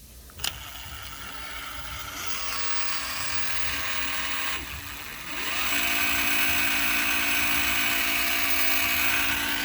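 High-speed power tool whining steadily as it cuts into a carbon fiber hood for a vent opening. It starts with a click, drops off briefly around the middle, spins back up louder, and cuts off abruptly at the end.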